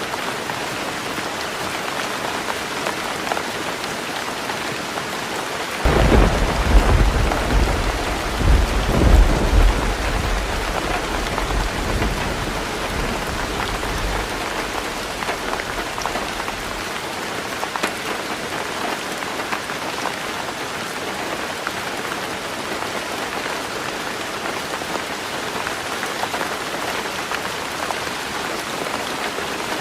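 Heavy rain drumming steadily on a tin roof. About six seconds in a thunderclap breaks, rumbling in several swells for about eight seconds before dying away under the rain.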